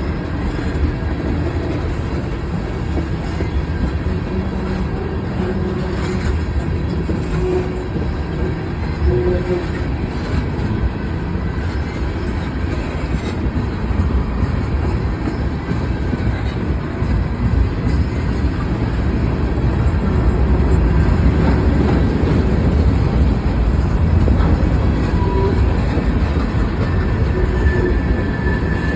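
Freight cars of a mixed freight train rolling past: a steady rumble of steel wheels on the rails, with brief faint squeals now and then.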